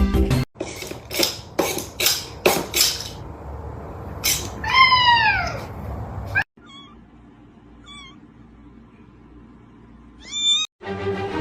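Domestic cat meowing: after a run of short sharp sounds, one long meow falling in pitch, then two faint short high mews and a brief rising meow near the end.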